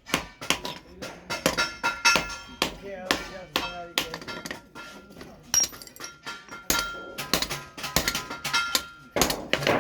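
Hand hammer striking hot steel on an anvil while forging an axe head, in quick runs of ringing blows. The blows thin out to a few lighter taps in the middle, then pick up again.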